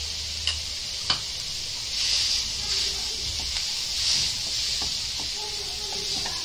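Shredded chicken and mashed potato filling sizzling in a frying pan as a silicone spatula stirs and pushes it around, the hiss swelling with the stirring strokes, with a couple of light taps of the spatula on the pan about a second in.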